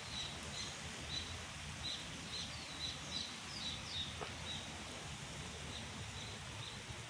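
Birds calling over a steady background hiss: a short high chirp repeated about twice a second, with a run of quick falling whistles about halfway through.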